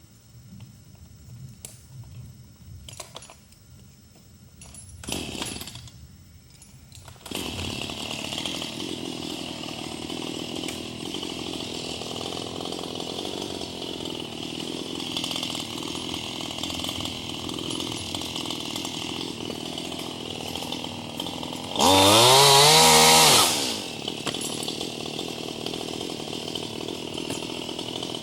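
Gas chainsaw comes in suddenly about a quarter of the way in after a few faint clicks and runs steadily, then is revved hard once, briefly rising and falling in pitch, before settling back to its steady running.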